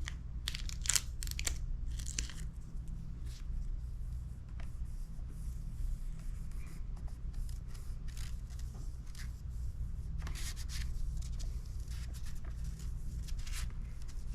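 Hands handling the adhesion-promoter primer and wiping it onto the helmet shell: scattered short, scratchy rustles and rubs over a steady low hum.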